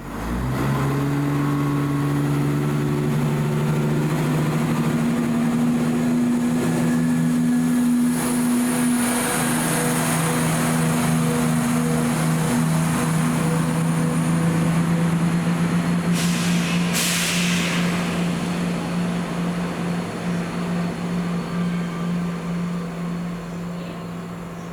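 A train at the station running with a steady, loud drone made of several held tones, fading slowly near the end. About two-thirds of the way through comes a short hiss of air, in two quick bursts.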